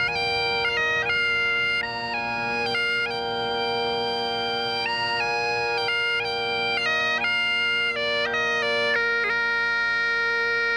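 Bagpipes playing a tune: a steady drone held without a break under a chanter melody of held notes stepping up and down.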